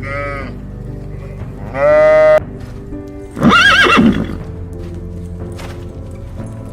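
Farm animal calls over a background music track: a short call at the start, a louder call about two seconds in, then the loudest call, with a quavering pitch, about three and a half seconds in.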